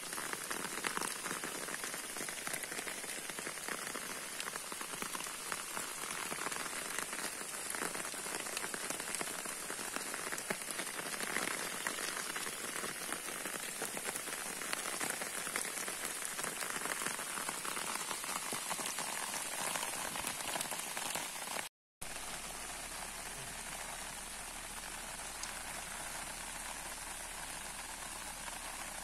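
Steady rain falling, with many small drop hits. The sound breaks off for a moment about three-quarters of the way through, then carries on a little softer.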